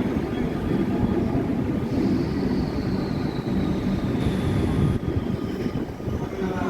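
Electric suburban train rumbling at the platform, with a faint high whine that slowly falls in pitch about two seconds in.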